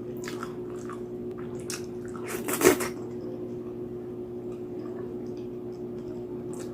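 Close-miked chewing and biting of roast pig's head (lechon): short wet crunches, with one louder bite about two and a half seconds in. A steady low hum runs underneath.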